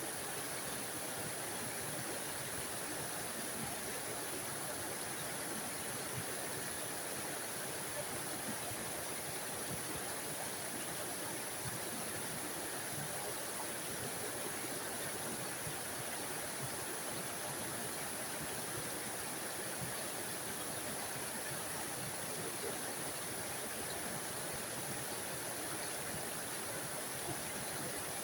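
Small forest waterfall splashing steadily: an unbroken, even rush of falling water with a bright hiss on top.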